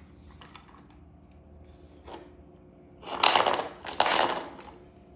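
Loose metal parts clattering and scraping as they are handled during mini bike fork work: two loud clatters about a second apart, a few seconds in.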